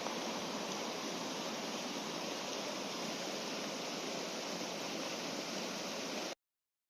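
Fast-flowing river water rushing steadily, a dense even hiss. It cuts off suddenly to dead silence near the end.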